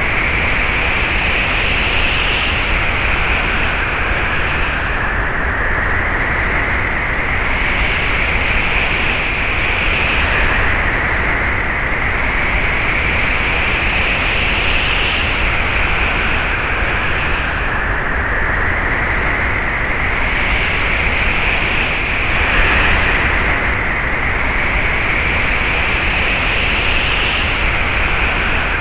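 Strong, steady wind noise, whose higher rushing tone rises slowly and drops back in gusts every few seconds.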